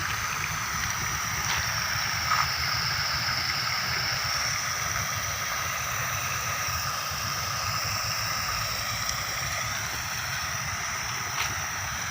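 Garden fountain running: water splashing and gurgling steadily, with a steady high-pitched tone held over it.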